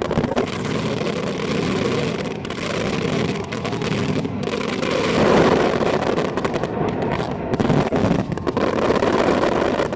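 Fireworks display: a dense, continuous mix of crackling and bangs from many shells going off at once.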